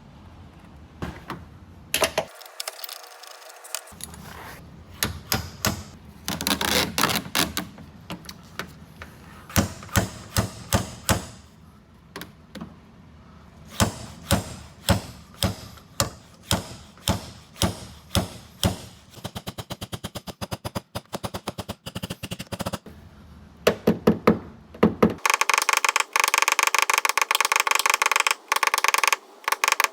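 Paintless dent repair tools on a car door edge: a run of sharp metallic taps and clicks, some single and some in quick bursts. From about 25 seconds in they give way to a fast, dense clatter of rapid taps.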